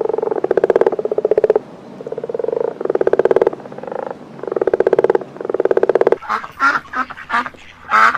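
A frog calling in a run of long, rapidly pulsed croaks, each lasting about a second. About six seconds in it gives way to a duck quacking repeatedly.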